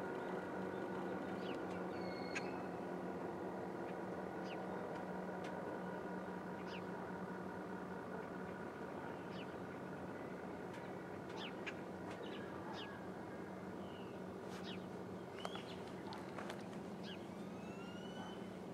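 Small birds chirping and tweeting in short, scattered calls, more of them near the end, over a steady low drone of several held tones that slowly fades.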